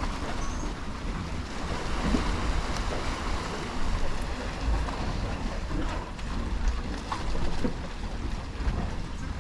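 Wind buffeting the microphone with an uneven low rumble, over a steady rushing noise.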